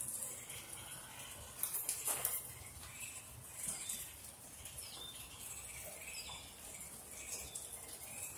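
Steady rain hiss with a few faint bird chirps.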